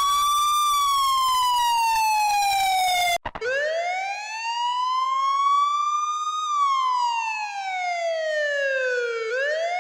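Police siren wailing in slow rises and falls of pitch. A few seconds in it breaks off briefly, and a second wail starts low, climbs for about three seconds, falls for about three, then begins to climb again.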